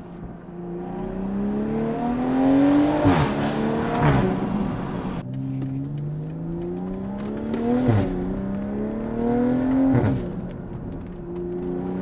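BMW M340i's B58 turbocharged straight-six, with free-flow downpipes and a valved aftermarket exhaust with the valves open, accelerating through several upshifts. The pitch climbs, then drops at each gear change, with a sharp crack at some of the shifts.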